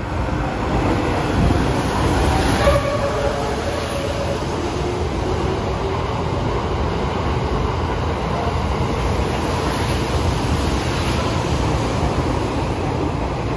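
E001 Shiki-shima train passing through a station platform, with a steady rumble and rattle of wheels on rail. A short falling run of tones from its music horn sounds about two to five seconds in.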